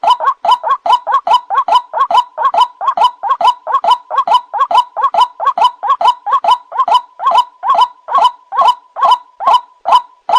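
White-breasted waterhen (ruak-ruak) calling: a steady, unbroken series of short, rough "kru-ak" notes, about two to three a second. It is a recorded lure call used to draw the birds in.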